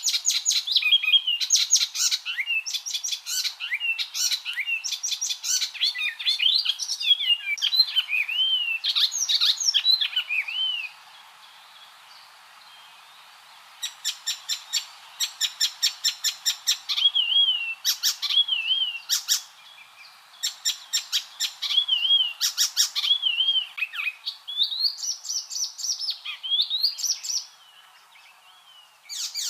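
Icterine warbler singing: a fast, varied song of dry rattling clicks and chatter mixed with rising and falling whistles. The song breaks off for about three seconds around eleven seconds in, and briefly again near the end.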